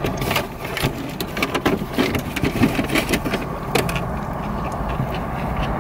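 Close-up chewing and mouth noises of people eating burgers, with irregular crackles from the paper wrappers, over a steady low hum inside the car.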